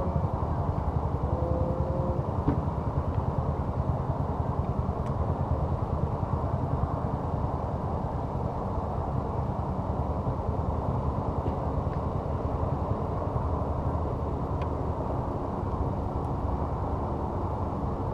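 An engine running steadily as a low rumble, with a few faint clicks.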